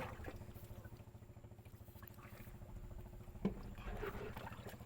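A boat's motor running faintly, a fast even pulsing. There is a single sharp knock about three and a half seconds in.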